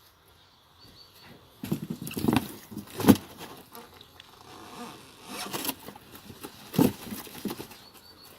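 Cardboard box being broken apart by hand: about four separate crunching, tearing bursts of stiff cardboard with short pauses between.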